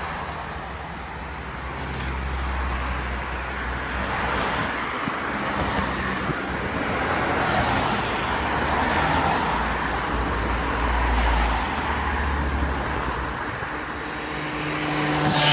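Wind buffeting a microphone carried on a moving bicycle, a rough, uneven low rumble, over a steady rushing noise of tyres rolling on the pavement.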